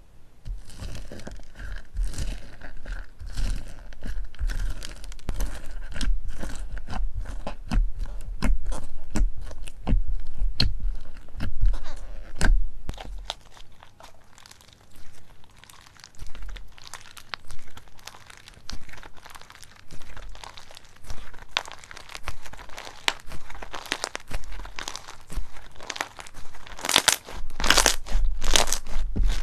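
Slime being squeezed and pressed by hand, giving a dense run of small crackles and pops over a low handling rumble. The crackling grows louder and sharper near the end.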